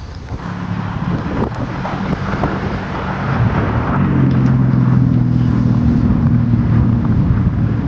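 A vehicle engine hums steadily under gusty wind noise on the microphone. The engine grows louder from about halfway through and then holds.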